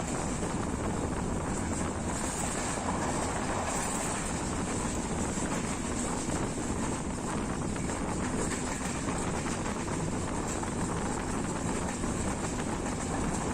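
Steady rushing noise of a Class S13 diesel multiple unit running at speed, with wind buffeting the microphone.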